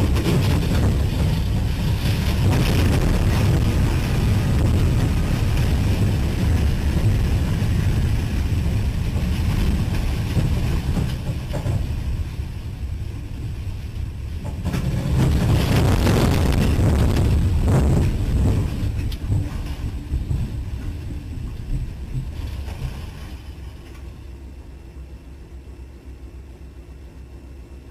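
A loud, low rumble with wind noise on the microphone. It swells again about halfway through, then fades toward the end.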